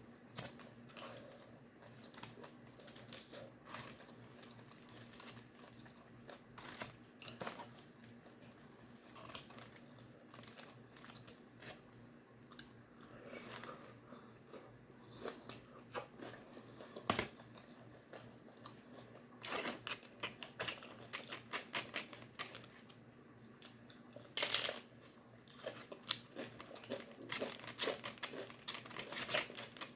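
Close-up eating sounds: irregular chewing and crunching mixed with the crinkle of a paper or plastic food bag being handled. The loudest moment is a short, sharp crinkle or crunch about three-quarters of the way through.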